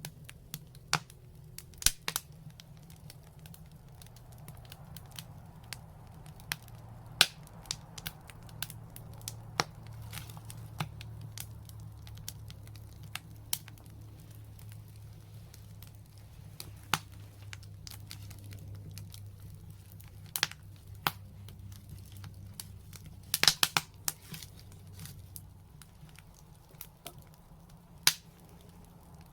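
Fireplace fire crackling, with sharp pops at irregular intervals and a quick flurry of pops about three-quarters of the way through, over a low steady rumble.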